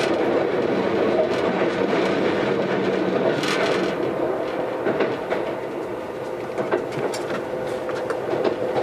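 Keisei AE100 series electric train running, heard from inside the car: a steady rumble with a humming tone that fades a little past the middle and returns near the end, and scattered clicks of the wheels over rail joints. A weak air-conditioning fan runs in the background.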